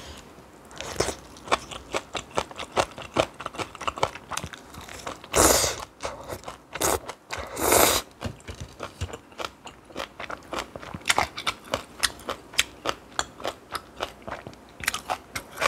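Close-miked chewing and crunching of spicy stir-fried noodles and kimchi: a dense, irregular run of small crisp crunches, with two louder, longer slurps about five and a half and eight seconds in.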